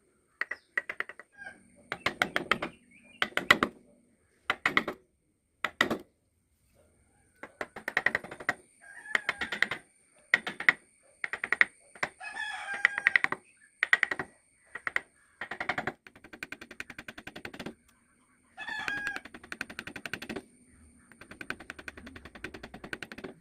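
Repeated bursts of rapid clicking and tapping, typical of hand tools working wood, with chickens clucking and a rooster crowing in between.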